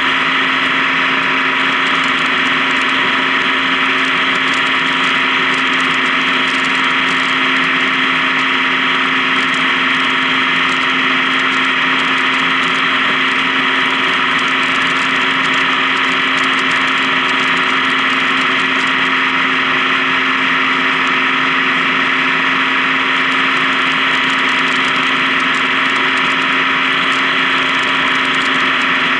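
Honda Gold Wing touring motorcycle cruising at a steady highway speed. Its engine hums evenly under constant wind and road noise, with no change in pitch or level.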